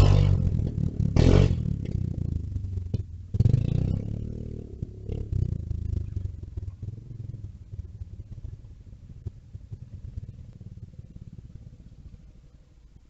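Mini bike engine revving as it rides by, starting abruptly, surging again about three seconds in, then fading away.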